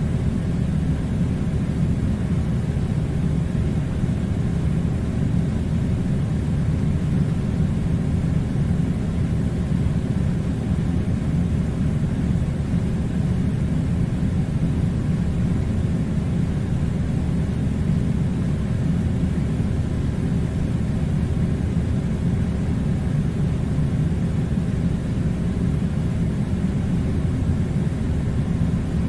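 A steady, unchanging low rumbling noise.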